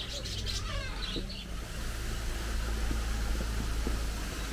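Small birds chirping in quick, gliding calls for about the first second and a half, over a steady low rumble that carries on after the birds stop.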